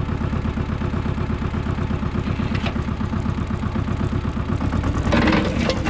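Goldoni 933 RS DT tractor's diesel engine running steadily with a regular beat. About five seconds in, a louder, harsher clatter joins the engine sound.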